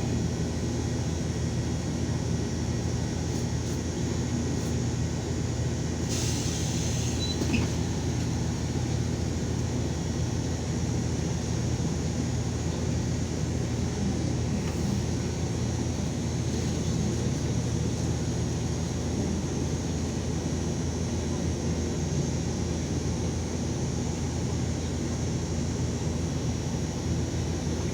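LiAZ 5292 city bus under way, heard from inside the cabin: a steady engine and road drone. A brief hiss comes about six seconds in, with a small knock just after.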